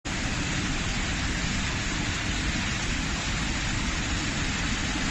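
Heavy storm rain pouring down steadily, an even hiss with no let-up.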